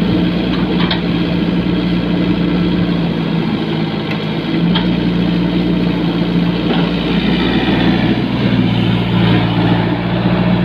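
Heavy equipment engine running steadily with a deep, even hum.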